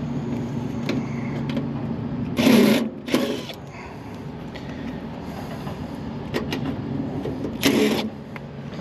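Cordless driver with a hex bit backing sheet-metal panel screws out of a rooftop air-conditioning unit in two short bursts, about five seconds apart, over a steady low machinery hum.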